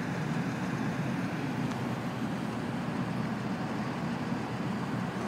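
Steady low vehicle rumble, even and unbroken.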